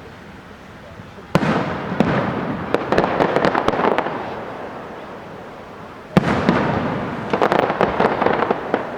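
Aerial firework shells bursting: two loud bangs about five seconds apart, each followed by a dense crackling that fades over a couple of seconds.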